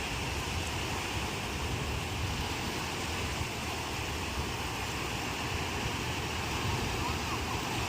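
Ocean surf washing steadily on the shore, a continuous even wash of breaking waves with a low rumble underneath.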